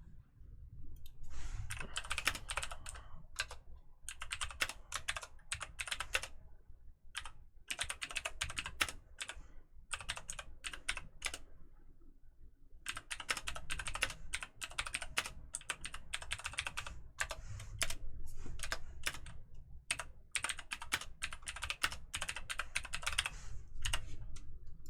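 Computer keyboard typing in several quick runs of keystrokes, with short pauses between the runs.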